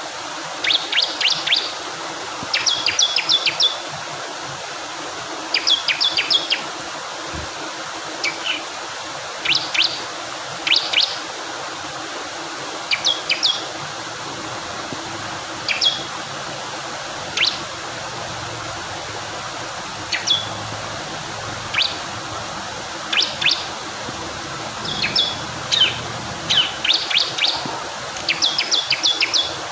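Bar-winged prinia (ciblek kristal) singing short clusters of rapid high chirps, repeated every second or two, over a steady rush of flowing water.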